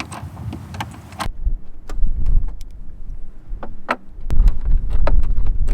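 Wind buffeting the microphone, a heavy uneven low rumble that comes in about a second in, with scattered sharp clicks and knocks over it.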